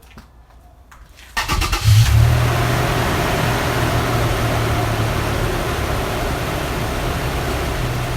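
2010 Toyota Tacoma's 4.0-litre V6 cranked by the starter about a second and a half in, catching with a brief flare and settling into a steady idle. This is the first start after a fresh oil change, run to circulate the new oil before the level is rechecked.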